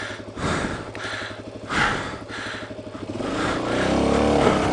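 Suzuki DRZ400 dirt bike's single-cylinder four-stroke engine running with two short throttle blips, then revving up and getting louder from about three seconds in.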